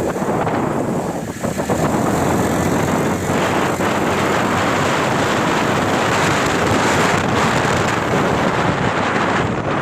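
Tractor and hay baler running steadily, with wind buffeting the microphone.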